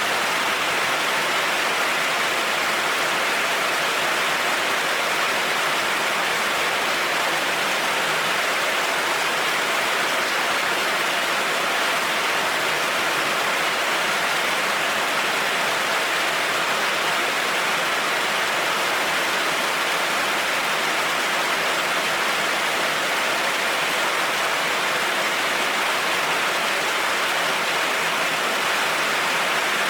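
Heavy rain falling steadily on a road, an even hiss with no thunderclaps.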